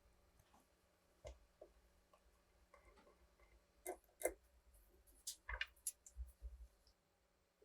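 Scattered light clicks and taps of small metal parts being handled, with quiet between them. The loudest come as a pair about four seconds in and a quick run of clicks a second or so later.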